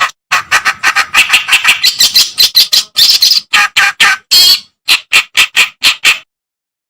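Reed warbler (kerak basi) singing: a dense run of short notes, spacing out to about four separate notes a second, then stopping about six seconds in.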